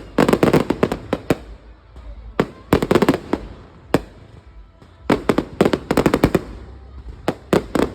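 Fireworks exploding in quick volleys of sharp bangs, four clusters with single bangs between them.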